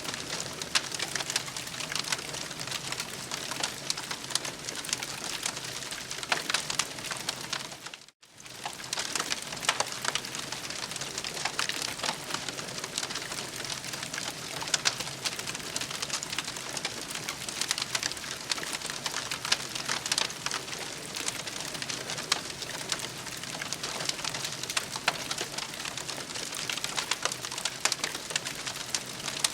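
Campfire crackling: a steady hiss thick with quick pops and snaps, cutting out for a split second about eight seconds in.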